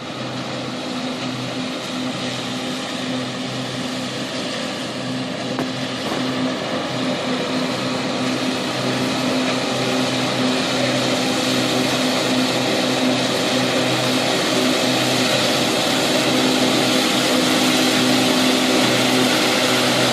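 BM Tractors Better 180 tractor engine running at a steady speed, a continuous hum with a broad rushing noise over it, growing gradually louder.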